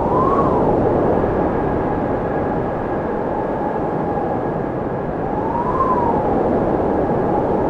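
Wind blowing steadily, with a whistling howl that rises and falls in pitch twice, about five seconds apart.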